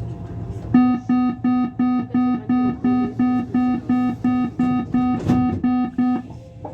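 Metro train's door-closing warning beeping rapidly, about three beeps a second, for some five seconds and then stopping.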